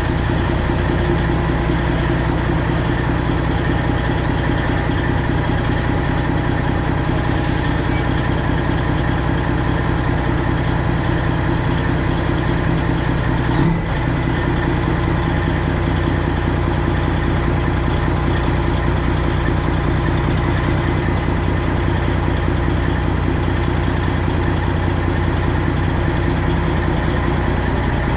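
Straight-piped Freightliner Classic XL's Detroit Diesel 12.7 engine idling steadily, with one short knock about halfway through.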